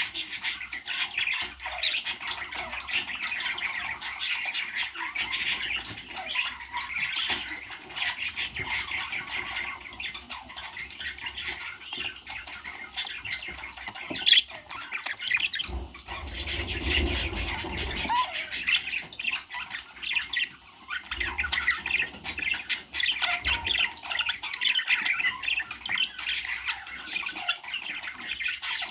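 Parrots squawking and chattering without a break, with one sharp, louder call about halfway through.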